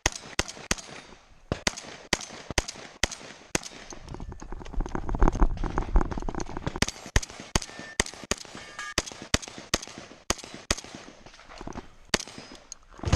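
Rock Island VR-80 semi-automatic 12-gauge shotgun firing a 3-gun stage: irregular strings of shots, often two or three a second, with short gaps between strings.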